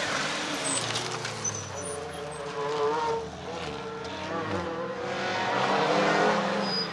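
Rally car engines revving and changing pitch as cars run through a stage. The engine sound fades after a car has passed, then builds again about five seconds in as another car comes closer, and drops off near the end.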